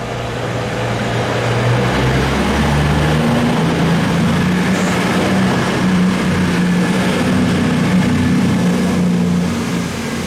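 Diesel train running loud, its engine note rising in steps over the first few seconds and then holding, over a steady rushing noise.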